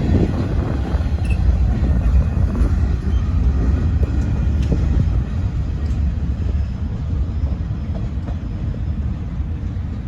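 Freight train's cars rolling past on the rails: a steady low rumble with a few faint clicks, easing off slightly toward the end.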